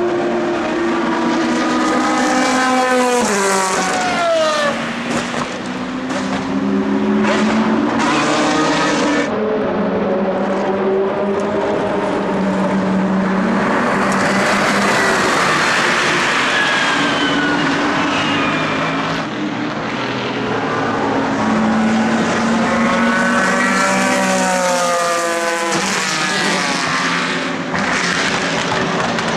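Several endurance race cars passing one after another at racing speed, their engines revving hard and shifting gear, the pitch climbing and dropping as each car goes by.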